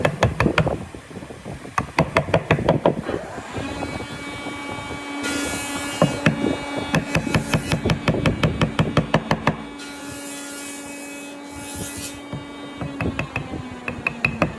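Rapid knocking and tapping on wood, several strikes a second. A steady hum from a running motor comes in about a quarter of the way through and carries on beneath the knocks.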